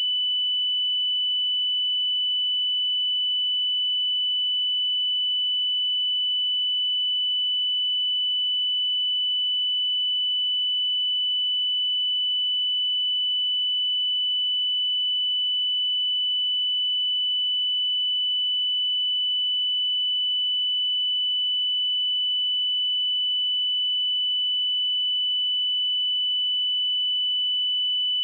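A pure sine-wave test tone at 2987 Hz, a single steady high-pitched tone held at constant level.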